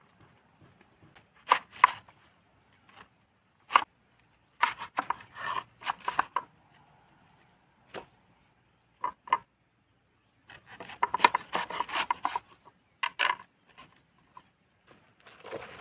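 Chinese cabbage being cut up with a knife: crisp cuts and crunches, some single, some in quick runs of several.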